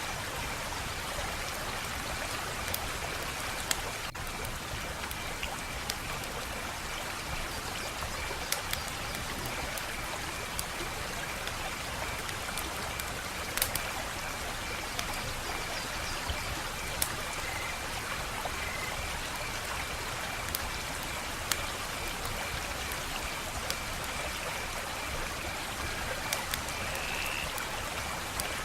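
Wood fire crackling: a steady hiss with sharp pops and snaps at irregular intervals, every second or few.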